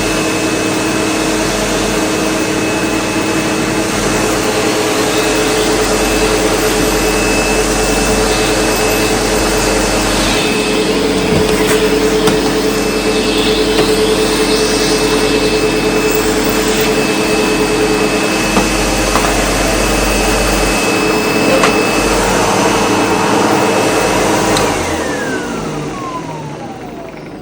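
SEBO Automatic X4 bagged upright vacuum cleaner running steadily with a high motor whine and a few sharp clicks while picking up a big mess. Near the end it is switched off, and the whine falls in pitch as the motor winds down.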